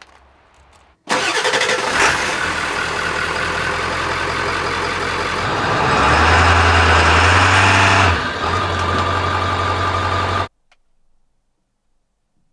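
Pickup truck engine running. It works harder for about two seconds past the middle, as when the truck is driven up onto leveling blocks, then stops abruptly.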